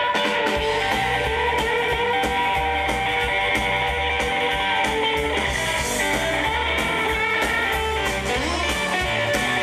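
Live band playing an instrumental guitar break in a bluesy country-rock song: electric guitar lead lines over steady bass and drums.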